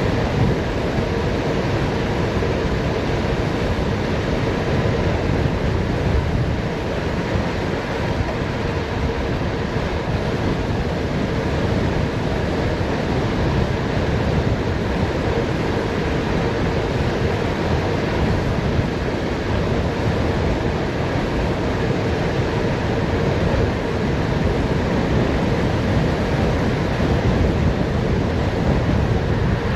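Steady rush of wind over the microphone mixed with tyre noise from a bicycle coasting downhill at speed, with a faint steady hum underneath.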